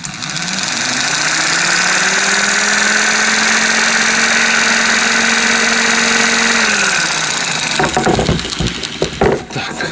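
Rebuilt air-conditioning blower fan with a brushed 12 V DC motor, run straight off a car battery: it spins up over about two seconds to a steady hum with a strong rush of air, then winds down about seven seconds in. The motor's brushes and commutator are scorched.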